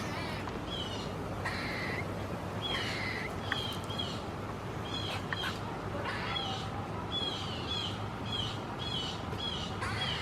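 Squirrels giving alarm calls: a run of short, high chirps repeating about once or twice a second, with two longer, harsh nasal calls about one and a half and three seconds in.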